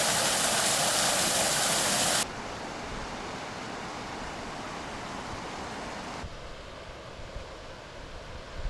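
Steady rushing of falling water, loud for the first two seconds, then cutting abruptly to a quieter, even rush that softens again about six seconds in.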